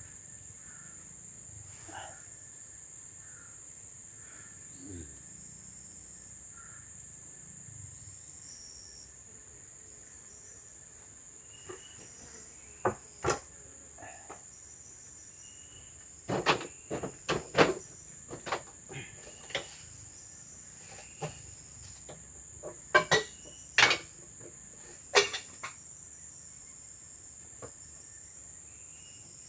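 Steady high-pitched insect drone from the forest. In the second half comes an irregular run of sharp knocks and clacks, some in quick pairs, louder than the drone.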